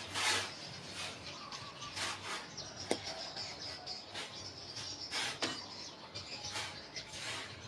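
Birds chirping in the background, over about seven short scraping strokes at irregular intervals and a single sharp click about three seconds in.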